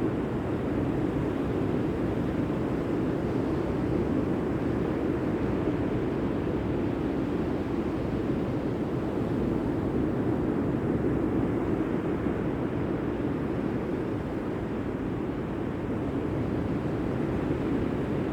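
Steady, low rushing noise of sea surf.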